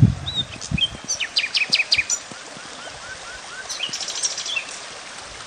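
Small songbirds calling and chirping: short high chirps, then a run of five quick rising notes in the middle, and a fast burst of notes about four seconds in, over a steady outdoor hiss. A few soft low knocks come in the first two seconds.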